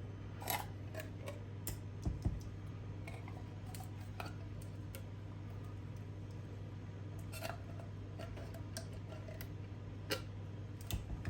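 Scattered light clicks and taps of a kitchen utensil against a container as leftover mushroom soup is scraped out into a pan, over a steady low hum.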